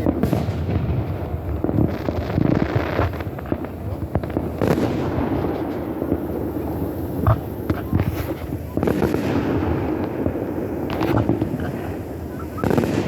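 Aerial fireworks show going off: a run of loud booming bursts a second or a few seconds apart, with crackling and a low rumble between them.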